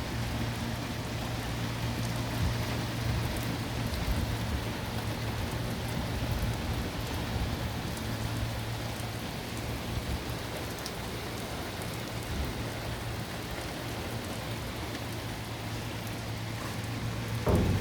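Steady rain falling on hard surfaces. Near the end a sudden loud rumble breaks in, the start of a thunderclap.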